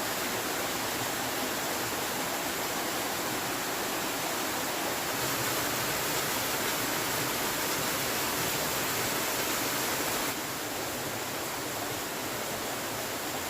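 Steady rushing hiss of water, which drops a little in level about ten seconds in.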